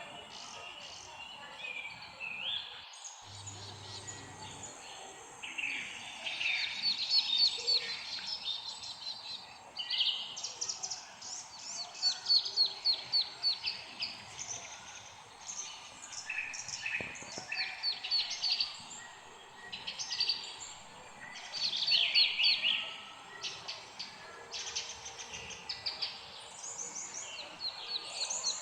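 Several songbirds singing and chirping, with rapid trilled phrases coming in bursts every few seconds over a steady background hiss.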